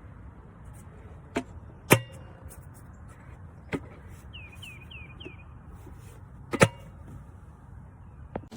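Several sharp clicks and knocks over a low steady background hiss, the loudest about two seconds in and again past six seconds, with four quick high chirps in between.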